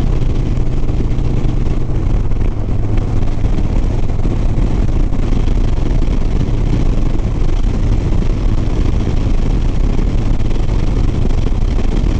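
Harley-Davidson Sport Glide's V-twin engine running steadily while riding, with wind and road noise over it.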